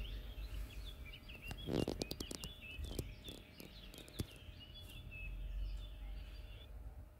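A bird chirping in many short, quick calls over a low steady hum, with a burst of crinkling clicks from a plastic bag being handled about two seconds in and a single sharp tick about four seconds in.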